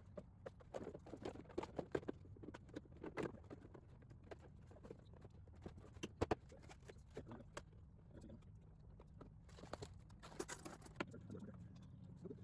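Faint, scattered clicks, taps and small knocks of hand work on mower parts, with a sharper double knock about six seconds in and a cluster of taps near the end.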